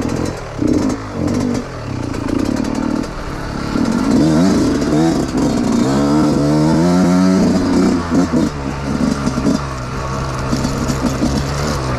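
Dirt bike engine under way on a trail: choppy on and off the throttle for the first few seconds, then the revs climb about four seconds in and hold a steady note before easing off near the end.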